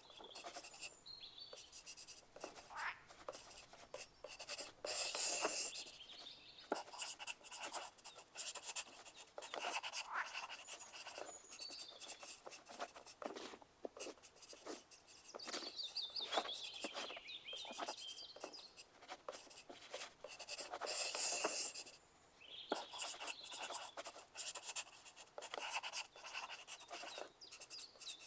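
Pencil writing on paper: a continuous run of quick graphite scratching strokes, swelling into louder stretches of writing about five seconds in, around ten seconds, and again near twenty-one seconds.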